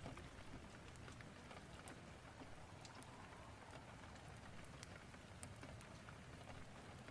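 Faint steady rain, with scattered small sharp ticks.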